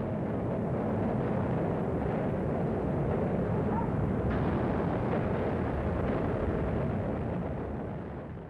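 Long, steady roar and rumble of a stadium structure collapsing in a demolition implosion, fading near the end.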